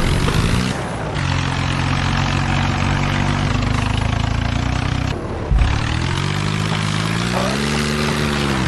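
Tractor diesel engines running hard under load, their pitch sagging and rising. The sound changes abruptly about a second in and again past halfway.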